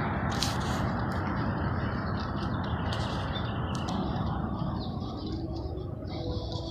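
Steady rushing outdoor noise that eases off about five seconds in, with small birds chirping and a few sharp clicks over it.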